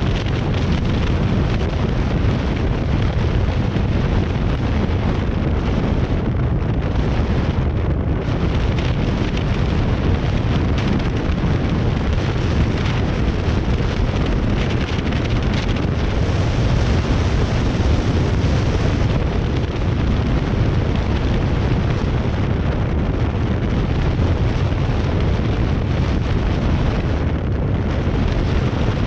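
Wind buffeting the camera's microphone: a loud, steady, dense rumble, heaviest in the low end, with no other sound standing out.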